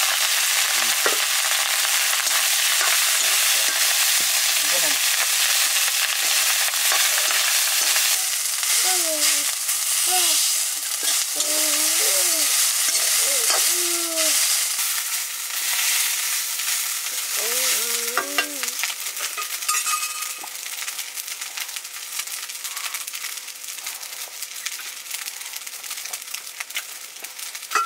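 Rice sizzling in hot oil in an iron wok over a wood fire while it is stirred. The sizzle is loud at first and dies down over the second half. A few short pitched calls come through in the middle.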